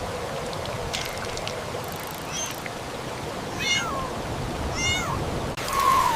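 Kitten mewing: three short, high-pitched mews that fall in pitch, then a lower mew near the end, over a steady background hiss.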